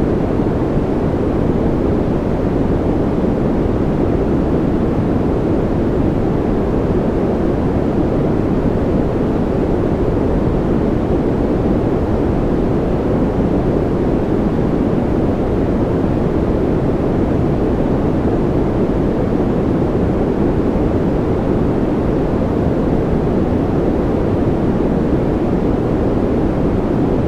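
Continuous white-noise ambience track: a steady, even hiss-like rush, deep and muffled in tone, that never changes, with no individual drops or patter.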